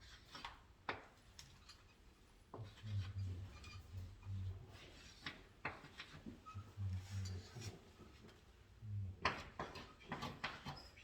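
Hand tools and small parts being handled during electrical wiring work: scattered clicks, light knocks and rubbing, with a cluster of sharper clicks near the end.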